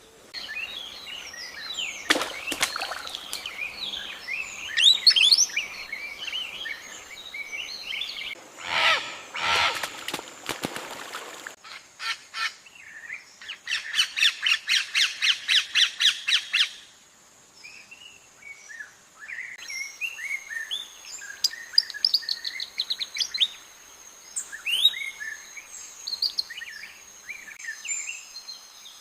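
Many birds calling and chirping over one another. Near the middle come a louder harsh call and then a quick run of evenly repeated notes, about five a second, lasting some three seconds. A thin steady high tone runs under the later part.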